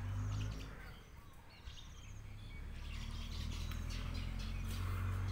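Small birds chirping faintly here and there over a steady low hum.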